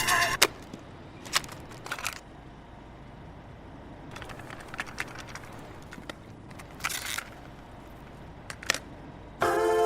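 Low background hum with a few scattered sharp clicks and short rustling noises, then music with sustained notes starts near the end.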